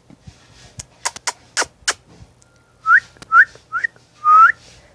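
A person whistling four short notes, each rising in pitch, after a quick run of sharp clicks.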